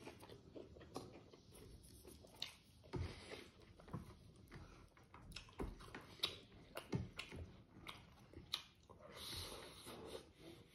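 Close-miked chewing of boiled smoked pork and rice, with irregular soft mouth clicks and smacks.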